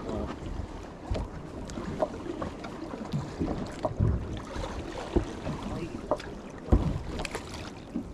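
Wind buffeting the microphone aboard a small fishing boat at sea, with scattered knocks and thumps on the boat and one sharp thump late on.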